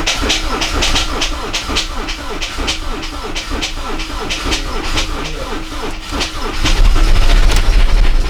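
Audi A8 D3 engine being cranked by its starter in even rhythmic pulses about three a second, not starting. Near the end a louder low rumble comes in as it half-catches, then it cuts off. The engine's valve timing on one head is suspected to be off after the rebuild.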